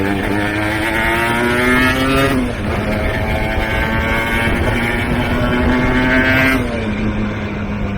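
Aprilia Tuono 125's single-cylinder two-stroke engine through a TYGA expansion-chamber exhaust, accelerating hard. The revs climb, drop sharply at an upshift about two and a half seconds in, climb again, and fall back about a second before the end.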